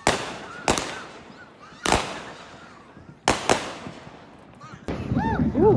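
Fireworks going off: about five sharp bangs at irregular intervals, each trailing off, then short rising-and-falling whistling tones and a rush of crackle near the end.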